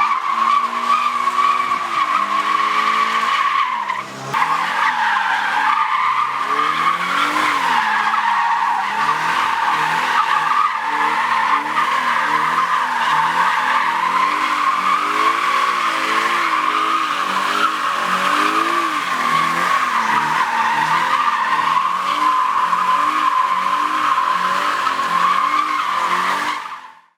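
Car tyres squealing continuously while the engine revs up and down underneath; the sound cuts off abruptly near the end.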